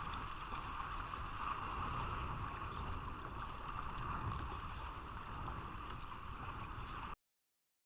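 Steady water and wind noise from a kayak out on the sea, with wind on the microphone. It cuts off abruptly to silence about seven seconds in.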